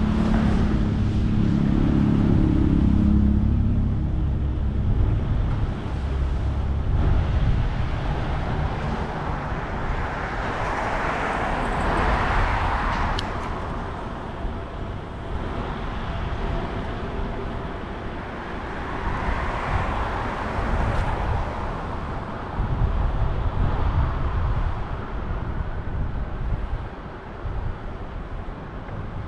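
City street traffic heard from a moving bicycle: a low engine rumble near the start, then motor vehicles swelling past twice, with low wind rumble underneath throughout.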